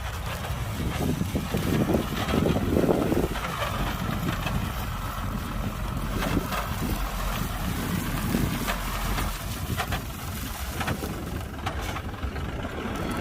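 Diesel engine of heavy earth-moving machinery running, a steady low rumble with wind noise on the microphone and a few sharp clanks.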